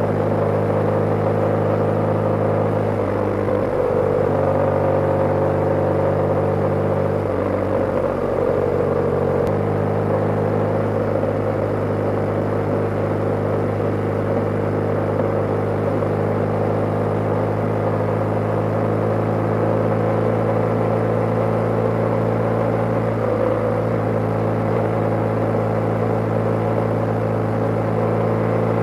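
BMW G/S motorcycle engine running steadily while riding. Its note changes between about 3 and 10 seconds in, then holds steady.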